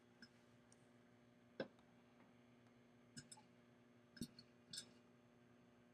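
Popcorn kernels popping in a glass microwave popcorn popper: about half a dozen sharp, scattered pops, the loudest about a second and a half in. The microwave runs with a faint steady hum underneath.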